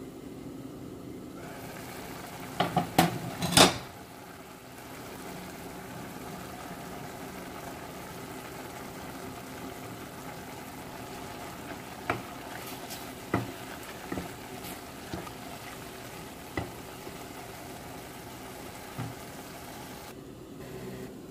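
Minced chicken sizzling steadily in a pot on the stove, with sharp clatters of utensils against the pot: a quick cluster about three seconds in and single knocks later on.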